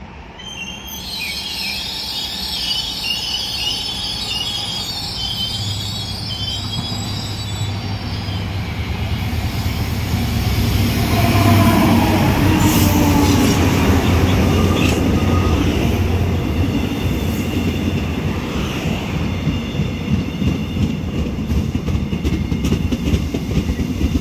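Diesel-hauled passenger train arriving and slowing at a station platform. For the first several seconds the wheels squeal high-pitched. The locomotive's diesel engine grows loudest as it passes, about halfway through. Then the carriages' wheels click steadily over the rail joints.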